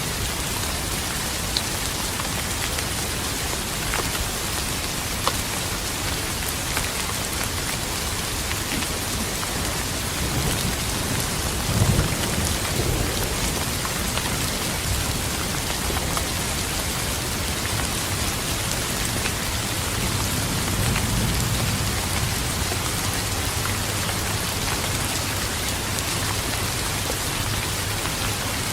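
Steady rain falling, with thunder rumbling about a third of the way in, rising to a sharp crack-like peak, and a second, softer rumble a little past two-thirds of the way through.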